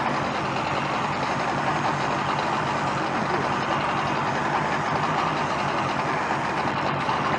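Bass boat's outboard motor running steadily at low trolling speed, a constant low hum under a steady rushing noise.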